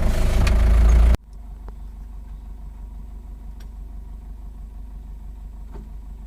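Truck engine running loud for about a second, then cutting abruptly to a quieter, steady low engine hum.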